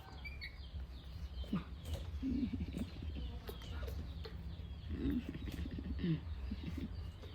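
Scattered short animal calls: brief high chirps and quick low squeaks that slide in pitch, over a steady low hum.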